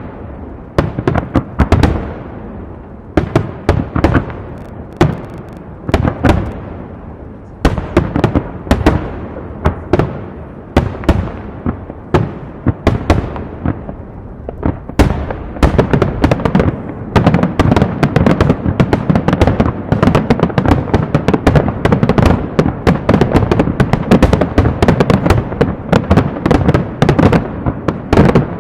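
Aerial fireworks show (a starmine barrage) bursting overhead: shell bursts boom and echo at first a second or two apart, then build about halfway through into a dense, almost continuous run of rapid bangs and crackling.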